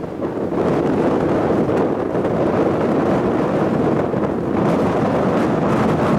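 Strong wind buffeting the microphone: a steady, loud rushing with gusty swells.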